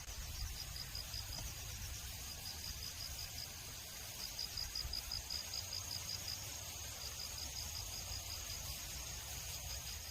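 Insects chirping in trains of rapid high pulses that stop and start, over a steady high insect drone, with a low rumble underneath.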